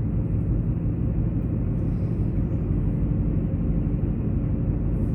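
Steady low rumbling noise at an even level, with no voice.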